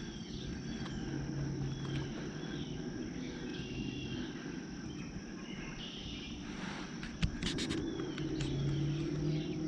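Wetland outdoor ambience: a steady high insect trill with short bird chirps repeating every second or so, over a low hum. A few sharp clicks come about seven seconds in.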